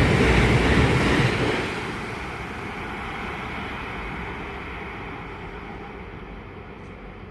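A passing train's noise, loud for about the first second and a half, then dropping sharply and fading steadily away as it recedes.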